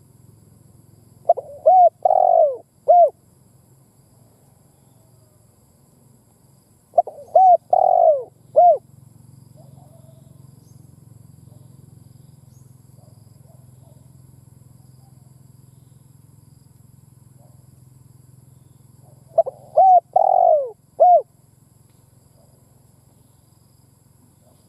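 Spotted dove cooing: three phrases of about four or five short notes each, the longest note in the middle, a few seconds apart. A faint steady low hum lies underneath.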